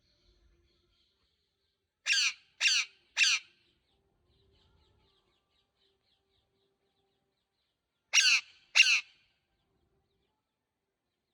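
Green parrot squawking: three short calls in quick succession, then two more about five seconds later.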